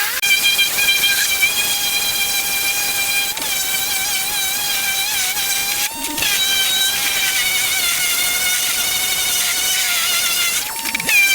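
A high-speed electric power tool running with a steady high whine whose pitch wavers slightly under load. It breaks off briefly about halfway through and again near the end.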